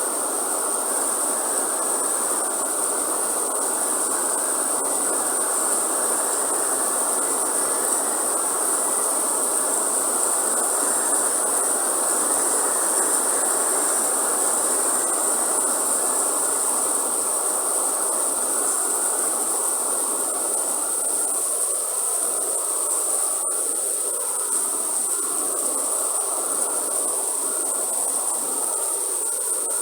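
Steady rain falling in a rainforest, with a constant high-pitched insect drone over it.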